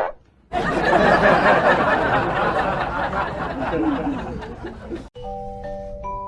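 A group of people laughing for about four seconds, which cuts off suddenly. Light plinking mallet-percussion music, like a glockenspiel, starts near the end.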